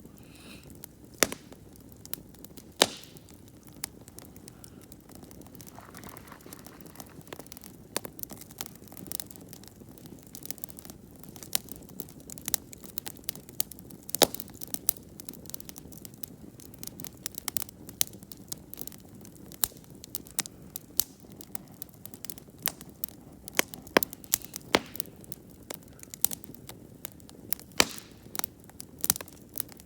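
Wood campfire burning and crackling: irregular sharp pops and snaps from the burning wood, a few louder than the rest, over a low steady hiss of the flames.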